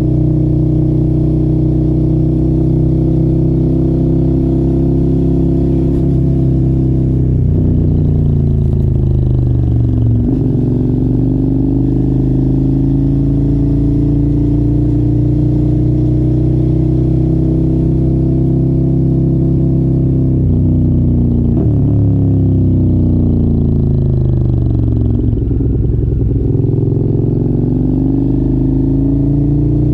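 Sport motorcycle engine with an aftermarket exhaust, heard on the move at a steady pitch. Twice the engine note falls away and then climbs again, about a third of the way in and again later on.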